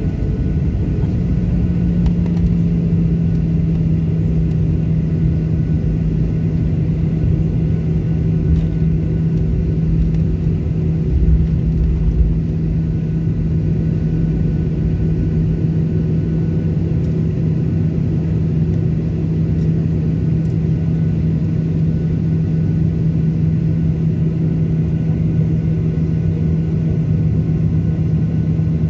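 Airliner cabin noise: a steady jet-engine drone with one held tone and a low rumble, with a few low thumps about a third of the way in.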